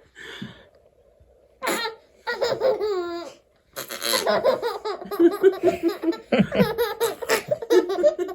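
A baby laughing in bursts of giggles, with a quiet gap about a second in and near-continuous laughter from about four seconds on.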